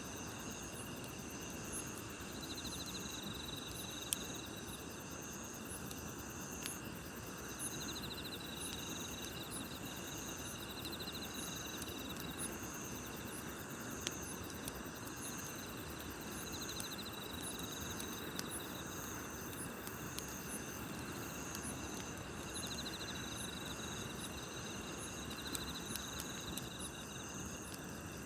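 Night insects chirping: several kinds at different high pitches, one in short trilled bursts about every second or two, others in steady regular pulses. Under them runs a constant low hiss of a campfire, with a few sharp pops.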